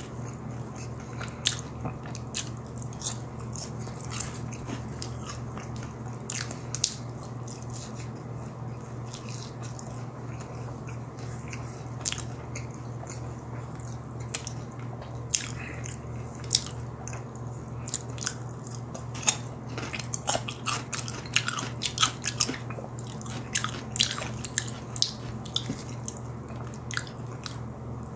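Close-up eating sounds of crispy fried chicken and fries: steady chewing broken by sharp crunches, which come thicker in the second half. A constant low hum runs underneath.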